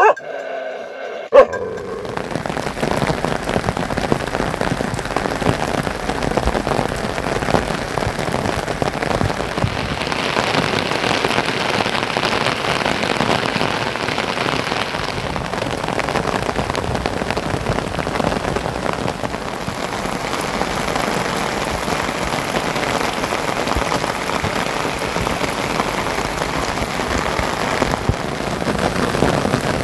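Heavy monsoon rain falling steadily, a dense even patter of drops on surfaces, which begins after a single sharp click about a second and a half in.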